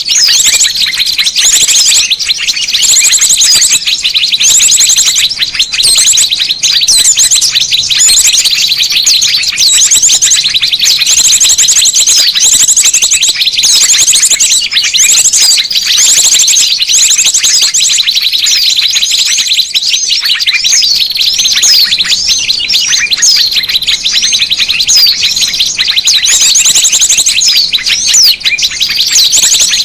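Loud, dense chorus of many small songbirds chirping and calling at once, high-pitched and unbroken, with a fast trill coming back every couple of seconds. It is a lure recording for calling small birds in.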